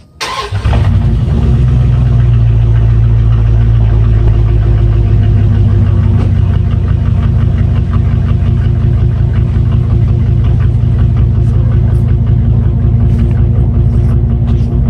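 Dodge Dakota R/T's 5.9-litre V8 started with a brief crank, catching about half a second in and then idling steadily and loudly.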